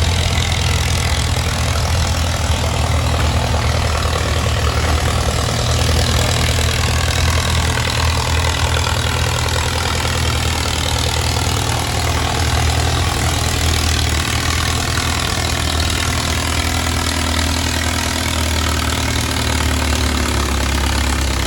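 Antique tractor engine running loudly and steadily, its pitch shifting a little, as at a pulling run.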